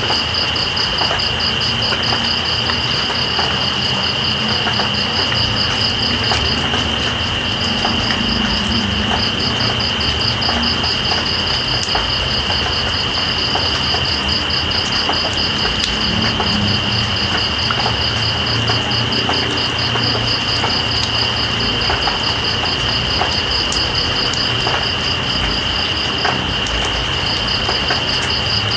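Steady rain falling with scattered drips, over crickets calling at night. One gives a continuous high trill; another makes a rapid pulsing chirp that pauses briefly twice.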